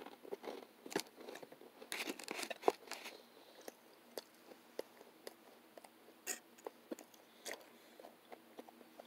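A person quietly chewing a mouthful of breakfast, with faint crunches of rye toast. The crunching is densest about two to three seconds in, then thins to scattered small mouth clicks.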